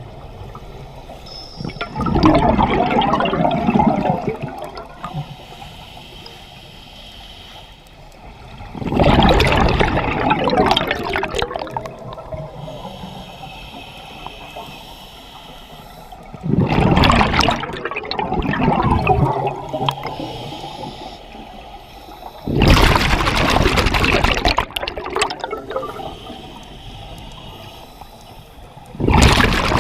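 A scuba diver breathing through a regulator underwater. Loud gushes of exhaled bubbles come about every six to seven seconds, five times, with a fainter hiss of inhalation between them.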